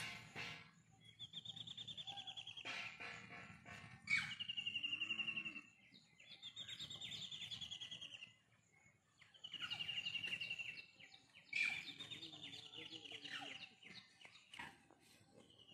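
A bird singing a series of high, rapid trills, each one to two seconds long and falling slightly in pitch, about five in all with pauses between them. A few sharp clicks fall among the trills.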